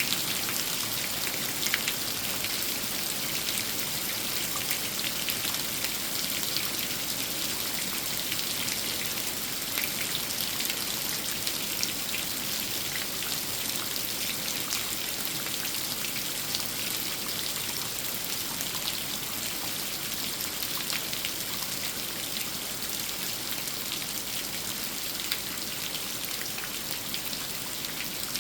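Steady rain falling, with a dense pattering of individual drops and no let-up.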